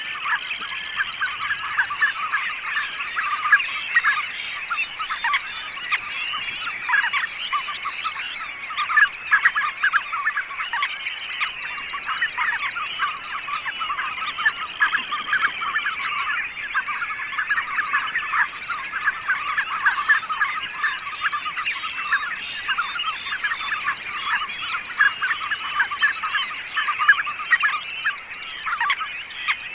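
A large flock of birds calling all at once: a dense, continuous chatter of many short overlapping calls, with no single bird standing out.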